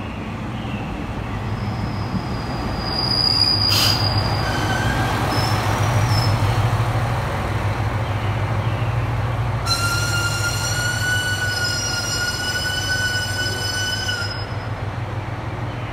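Diesel railcar pulling into a platform and braking to a stop, its engine giving a steady low hum. A few short squeals come from the wheels and brakes, then about ten seconds in a loud held brake squeal lasts some four seconds and ends as the train stops.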